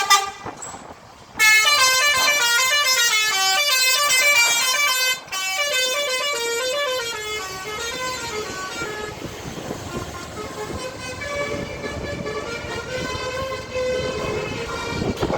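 Multi-note musical vehicle horn (a telolet horn) on a bus or truck playing a rapid stepped melody. It starts loud about a second and a half in, breaks off briefly about five seconds in, then plays on more softly.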